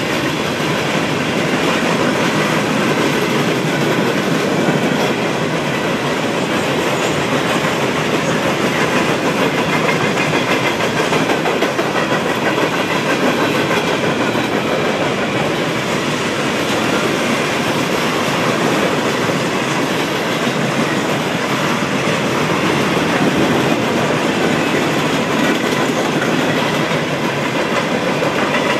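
Freight train cars, covered hoppers and open gondolas, rolling steadily past with a continuous rumble and clickety-clack of wheels on the rails.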